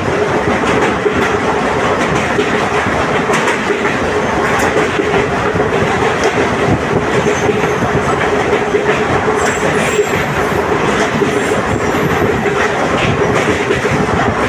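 Passenger train running along the track, a steady, even noise with a constant hum.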